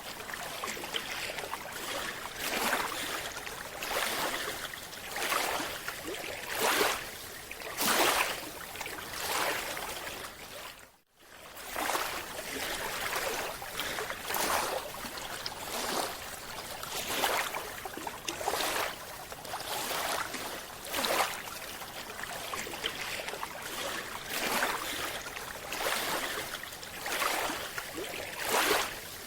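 Rushing, sloshing water noise that swells in regular surges about every second and a half. It cuts out briefly about 11 seconds in.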